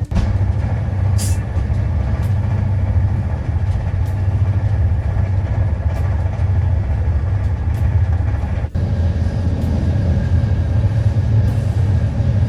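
Passenger train running, heard from inside the carriage: a steady low rumble with a few short clicks and rattles, briefly dropping out about nine seconds in.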